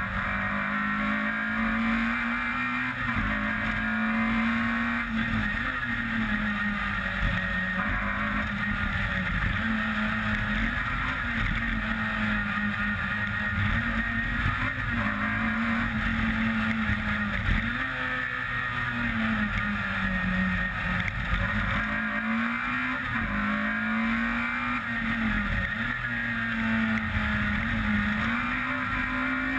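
Peugeot 106 rally car engine at full throttle, heard from on board. The revs climb and then drop back over and over as the driver shifts and lifts, over steady road and wind noise.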